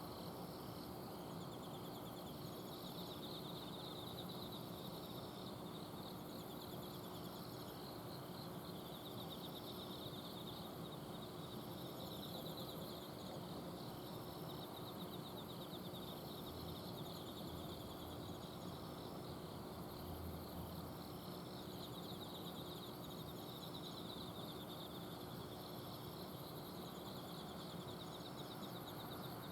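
Autumn insects singing at night: several crickets trilling in pulsed phrases that repeat every second or two, some higher-pitched than others. Under them runs a steady hum from an air conditioner's outdoor unit.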